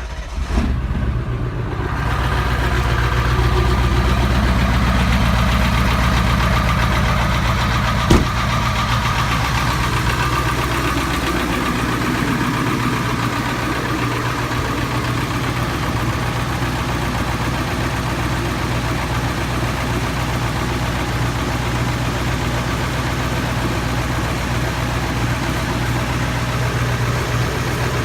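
Ford 7.3 Powerstroke turbo-diesel V8 just after a cold start at −3 °C. It catches right at the start, runs a little louder for the first several seconds, then settles into a steady cold idle. One sharp click sounds about eight seconds in.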